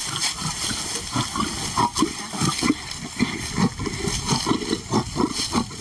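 Lions growling at a food delivery in a quick run of short, rough growls.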